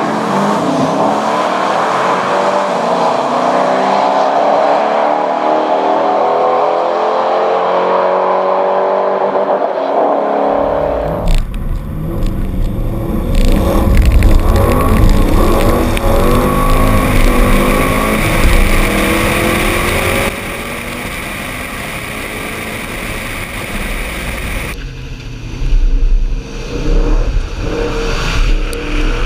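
Corvette Z06 V8 engine accelerating hard, its pitch climbing steadily for about ten seconds. Then the sound changes abruptly to engine noise over a heavy low rumble, changing abruptly again twice more.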